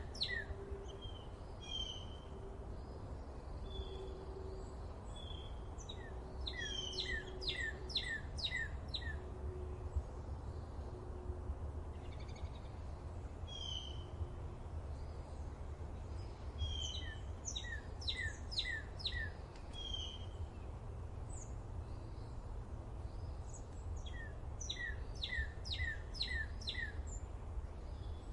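Forest songbirds singing: one bird repeats a quick phrase of five or six rapid downward-sweeping notes about every six to eight seconds, with single chirps from other birds in between. Soft low hoots sound faintly through the first half, over a steady low rumble.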